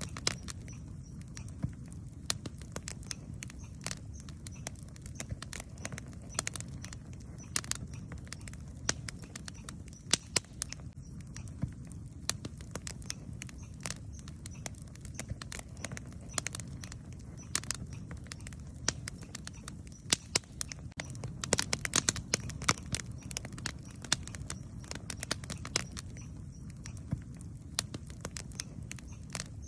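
Wood campfire crackling, with sharp pops and snaps at irregular intervals over a low steady rumble, and a denser run of pops about two-thirds of the way through.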